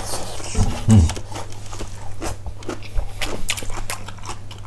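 Close-miked chewing and eating: many small wet mouth clicks, with a short low vocal sound about a second in, over a steady low hum.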